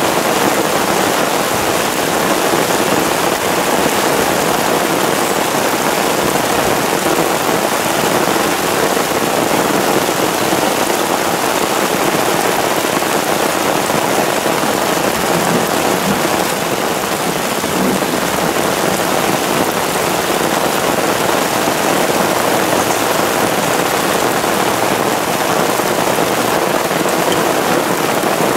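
Steady heavy rain, a downpour, falling on a stretched tarp and on grass. Runoff pours in a stream from the tarp's low corner into a plastic bucket that is partly full of water.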